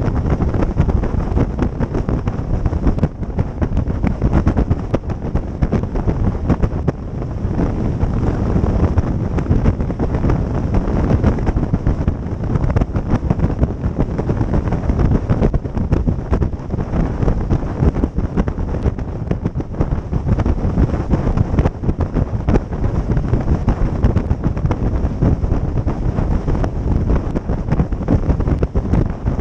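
Wind buffeting the microphone on a moving boat: a dense, low, fluttering rumble with no break.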